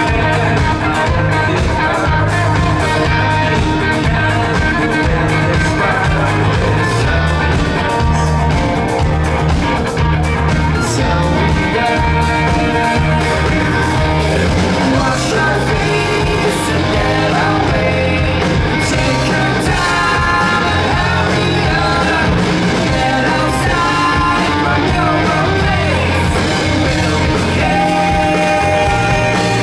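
Rock band playing live: electric guitar, bass and a drum kit driving a steady beat under a sung lead vocal.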